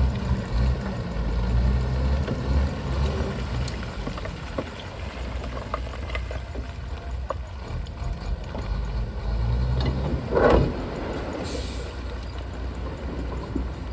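Diesel engine of a Shantui bulldozer running steadily with scattered clanks and knocks. About ten seconds in there is a brief louder burst of noise, followed by a short high hiss.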